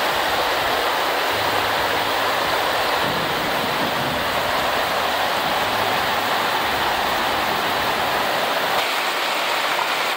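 Heavy rain falling, a steady rushing hiss.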